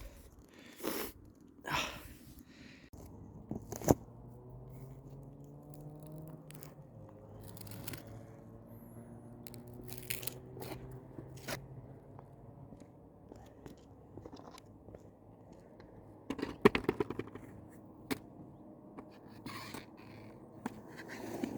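Skateboard rolling: the wheels give a low hum that drifts in pitch, with scattered clicks and scrapes and a quick clatter of knocks about seventeen seconds in.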